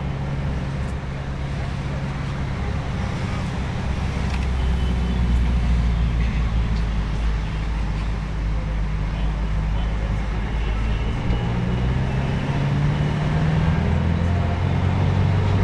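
Steady engine and road noise from inside a moving road vehicle: a continuous low hum whose pitch drifts slightly as it drives.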